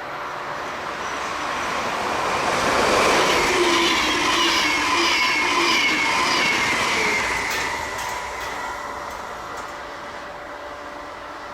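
A train passing on the line, building up, running loudly for a few seconds and then fading away. Faint whining wheel tones ride over the rumble, and a few sharp clicks come near the end.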